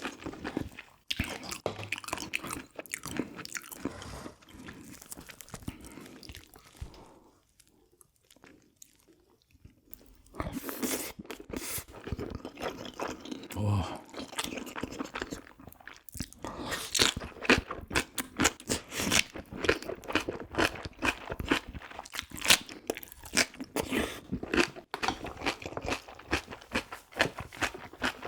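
A person chewing and biting food close to the microphone, with crunchy, irregular chewing sounds from a meal of soy-braised pigs' feet (jokbal) and kimchi. The chewing stops for a couple of seconds about a third of the way in, then resumes.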